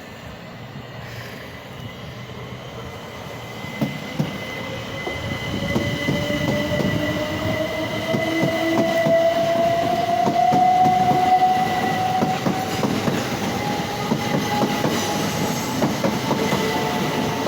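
Class 377 Electrostar electric multiple unit accelerating away from the station. Its traction motor whine rises steadily in pitch over wheel clatter on the rails, and the sound grows louder as it picks up speed.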